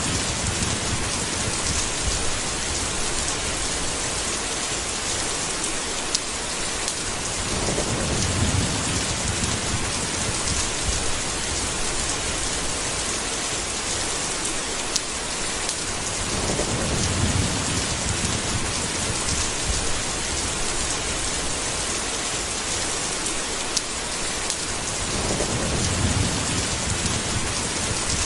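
Steady heavy rain, with a low rumble of thunder swelling up three times, about every eight or nine seconds.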